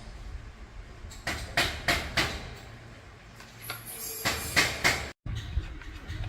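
Sharp knocks from hand work on metal parts: a run of four about a second in and a run of three around four and a half seconds in, each about a third of a second apart, over a low steady hum.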